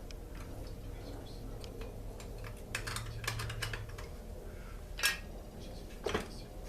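Scattered light clicks and taps from chainsaw parts and tools being handled during a teardown, with a quick cluster about three seconds in and two sharper single clicks near the end, over a low steady hum.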